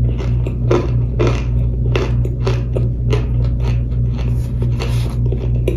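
Close-up crunching of toasted powder chunks being bitten and chewed, about two crisp crunches a second, over a steady low hum.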